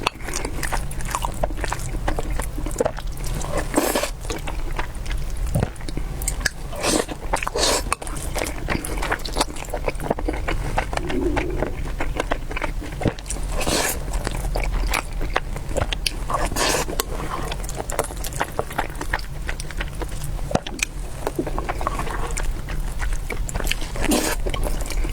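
Close-miked chewing and biting of food, with many irregular sharp clicks of bites and mouth sounds over a low steady hum.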